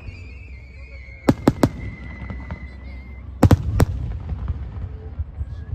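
Aerial fireworks bursting: a quick run of three sharp bangs, then two more a couple of seconds later, over a low rumble. A thin high whistle falls slightly in pitch through the first half.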